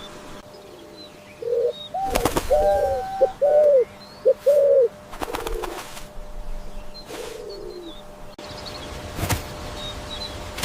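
A bird calling: a quick run of short arched cooing notes, then two lower calls that fall in pitch, with a few sharp clicks or knocks in between.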